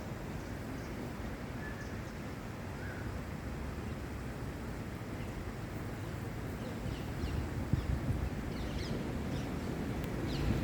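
Wind rumbling on the microphone. From about seven seconds in, small birds call with short, high chirps that come more often towards the end.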